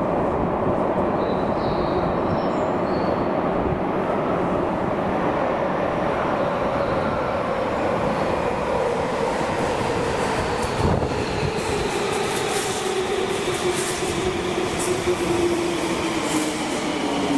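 Subway train pulling into the station and braking, a steady rumble of wheels with the motor whine falling slowly in pitch. A single knock about eleven seconds in.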